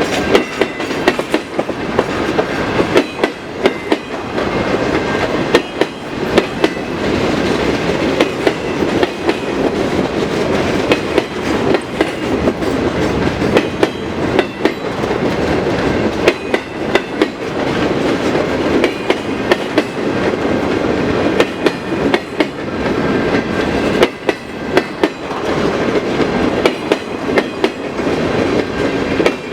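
Freight cars of a slow-moving manifest train rolling past, their steel wheels knocking over rail joints in a repeating clickety-clack above a steady rolling rumble.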